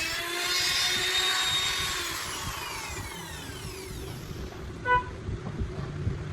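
Handheld electric wood router whining as its motor winds down, the pitch falling steadily over about three seconds. A brief pitched tone sounds near the end, over a low rumble.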